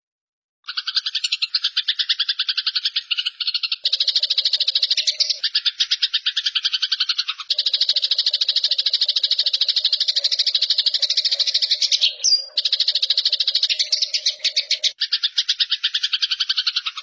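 Eurasian tree sparrows giving their fighting chatter: a fast, dense string of harsh high-pitched notes. It starts after a short pause about a second in.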